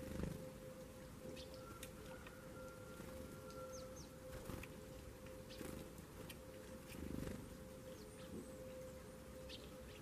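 Faint outdoor ambience under a steady low hum, with scattered short, high chirps from small songbirds, including a quick pair of falling notes about three and a half seconds in. A soft thump at the start, as a bird takes off from the seed tray, and another about seven seconds in.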